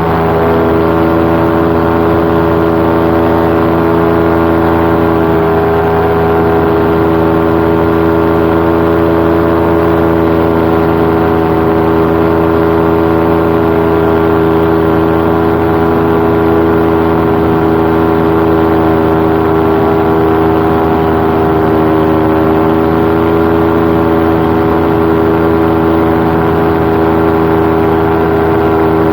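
Paramotor engine and propeller running steadily at cruise power in flight, holding a nearly constant pitch.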